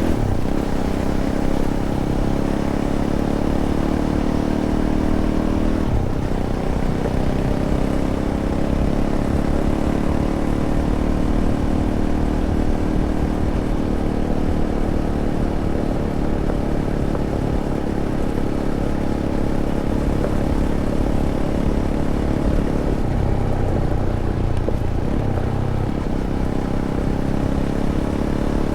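Fantic Caballero 500's single-cylinder four-stroke engine running under way through its stock Arrow exhaust. The revs dip sharply and pick up again about six seconds in, and drop lower for a couple of seconds near the end.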